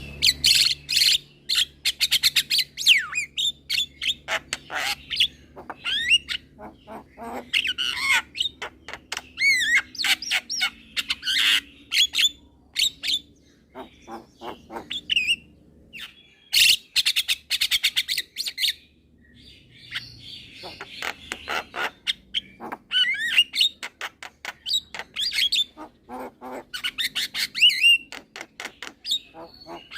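Young Javan myna (jalak kebo) singing in rapid chattering bursts of harsh squawks, clicks and warbling whistles, with a couple of brief pauses.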